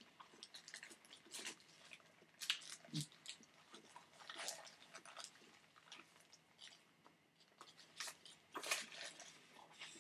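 A person chewing a mouthful of burger with lettuce: faint, irregular wet clicks and crunches. A paper napkin rubs against the mouth in the second half.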